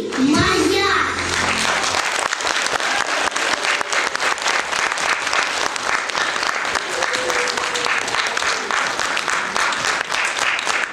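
Audience applauding: many hands clapping steadily after a song ends, the last sung note and backing music cutting off in the first two seconds.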